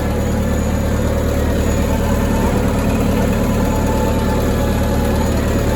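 Case backhoe's diesel engine running steadily while the machine drags an old grain elevator along.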